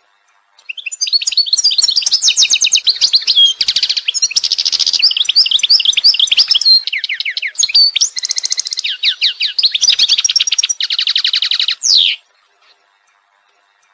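A songbird singing one long, varied song of fast trills, rapidly repeated notes and sweeping whistles. It starts about a second in and stops abruptly about two seconds before the end.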